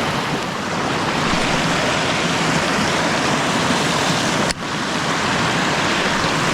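Creek current rushing over rocks, a steady loud rush of water, broken by a brief dropout about four and a half seconds in.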